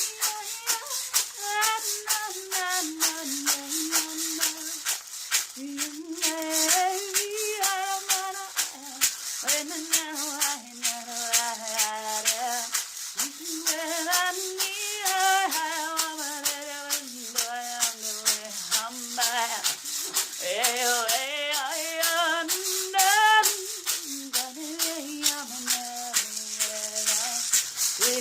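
A woman singing wordless 'light language', her voice sliding and wavering through long held phrases, over the continuous fast shaking of a hand rattle.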